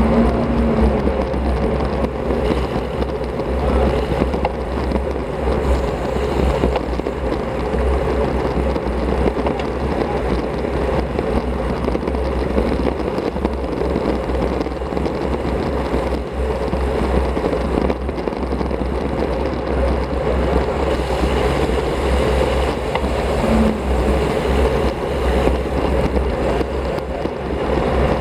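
Steady wind rush and low road rumble on a bicycle-mounted action camera's microphone while riding a road bike at speed, with no clear breaks.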